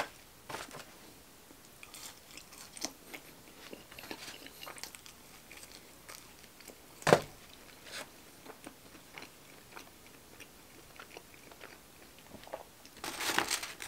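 Close-up eating sounds: a person biting into and chewing breaded fried chicken fingers dipped in sauce, with scattered soft crunches. One sharp, louder crunch about seven seconds in, and a denser run of crunching near the end.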